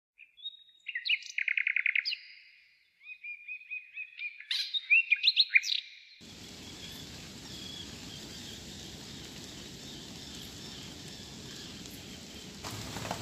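Songbird chirping and singing in quick runs of notes, with a fast trill about a second in. About six seconds in it gives way to a steady even hiss of outdoor ambience, and a few sharp clicks come near the end.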